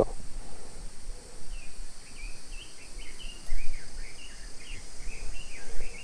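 A small bird twittering in a run of short, quick high chirps, over steady outdoor background noise.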